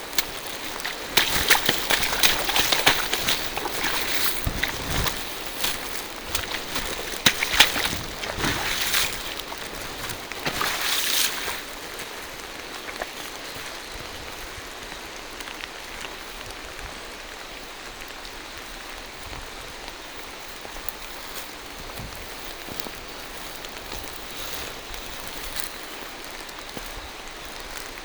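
Steady rain falling through forest foliage, an even hiss with the occasional sharper drop. For about the first eleven seconds it is overlaid by louder, irregular noisy surges, then it settles.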